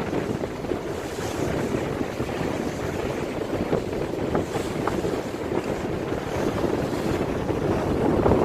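Wind buffeting the microphone over the steady rush of a cruise boat moving through water, swelling slightly near the end.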